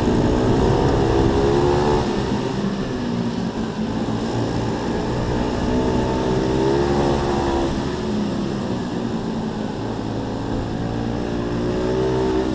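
Pit bike engines racing, the pitch climbing and dropping several times as the riders accelerate and back off.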